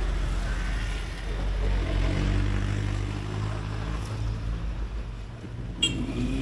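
Motorcycle engine running steadily through city traffic, with road and traffic noise around it. Near the end there is a single very short, sharp toot.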